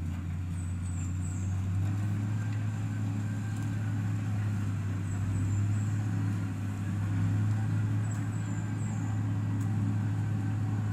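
Heavy-equipment diesel engine running steadily at a constant speed, a deep even hum. Faint high chirps come three times, about a second in, around five seconds in and around eight seconds in.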